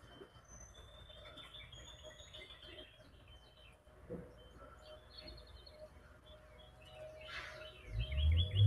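Wild birds chirping and calling in short, repeated high notes. Near the end comes a loud, low rumbling thud.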